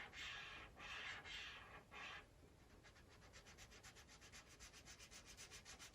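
Felt-tip marker rubbing on paper as an area is coloured in, faint: a few longer strokes, then quick back-and-forth scribbling at about eight strokes a second.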